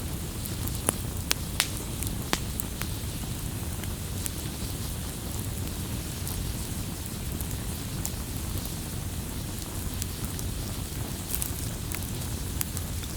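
Wood campfire burning: a steady low rumble of flames with scattered sharp crackles and pops, several close together in the first few seconds and a few more near the end.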